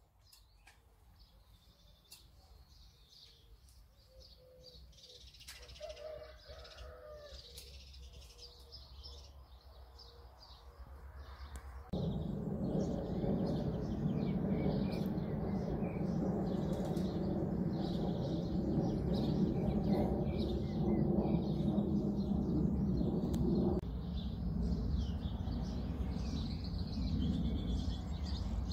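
Small birds chirping. About twelve seconds in, a steady low rumble starts abruptly and becomes the loudest sound, with the chirps carrying on above it.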